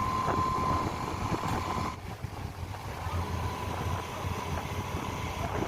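Wind buffeting the microphone over a low, steady rumble, with a thin steady high tone that is strongest in the first two seconds.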